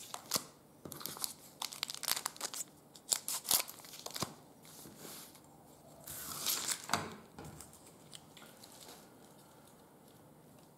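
Trading card packs being opened and the cards handled: a run of crinkling, crackling wrapper and card noises that thins out over the last few seconds.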